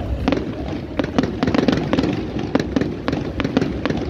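Fireworks display going off: a quick, irregular run of sharp bangs and crackles, several a second.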